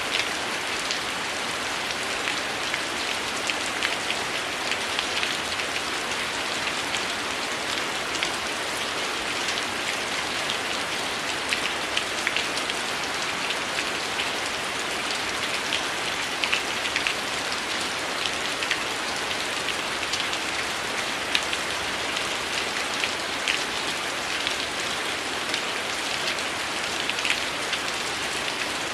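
Heavy rain falling steadily, an even hiss dotted with scattered sharp ticks of individual drops.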